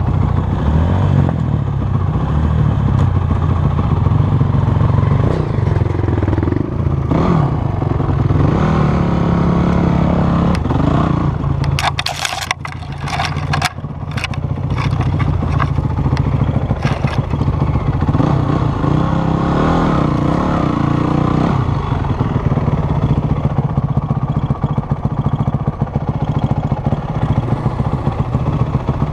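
Off-road vehicle engine running at low speed, its pitch rising and falling with the throttle, with a burst of sharp clattering and scraping about twelve seconds in.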